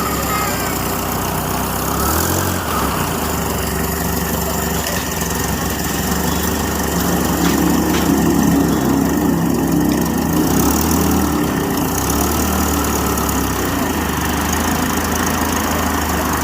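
Small gasoline engine running at a steady idle, picking up slightly about halfway through, while its ignition timing is being set.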